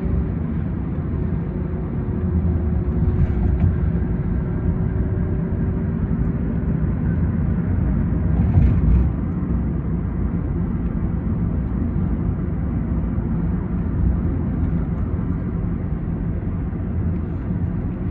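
Steady low road and engine rumble heard inside a moving car, with a faint engine tone slowly dropping in pitch over the first several seconds and a brief louder bump about eight and a half seconds in.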